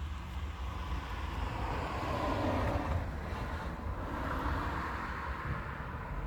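Thunder rolling in a long rumble that swells twice over a few seconds.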